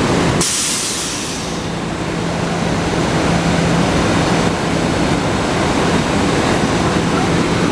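SEPTA Silverliner IV electric multiple-unit train standing at the platform, its onboard equipment giving a steady hum and rumble. A sharp hiss of released air starts about half a second in and dies away within about a second.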